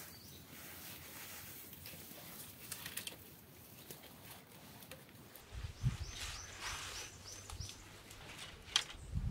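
A small songbird gives a quick run of about eight short chirps, starting a little past halfway through, over scattered rustles and light clicks of wood and leaf litter.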